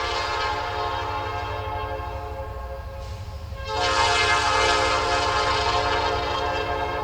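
EMD diesel locomotive's air horn sounding two long blasts: the first fades out about three seconds in, and the second, louder one starts just before the four-second mark. The locomotive's engine rumbles low underneath.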